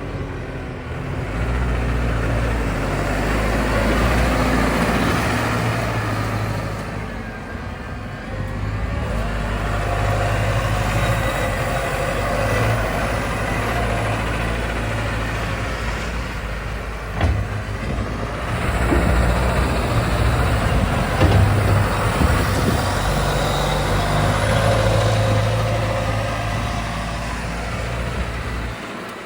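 Large farm tractor's diesel engine working a front-end loader bucket through gravel, its revs rising and falling as it pushes, with a couple of sharp clunks.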